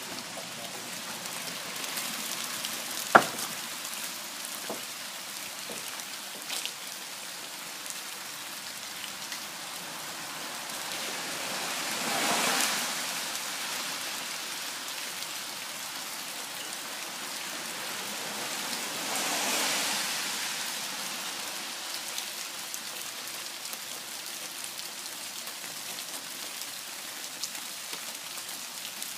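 Steady rain falling, with a single sharp knock about three seconds in and two slow swells of louder rushing noise, around twelve and twenty seconds in.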